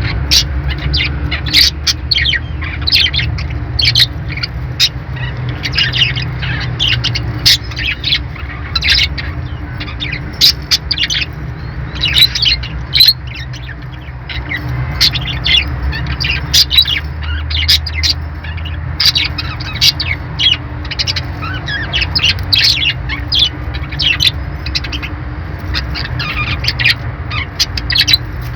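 Small pet parrots chirping and squawking in rapid, overlapping short calls, over a steady low hum.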